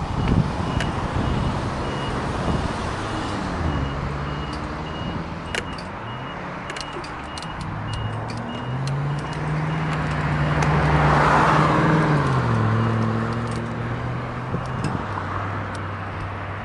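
Road traffic passing, with an engine note that rises and falls and is loudest about eleven seconds in.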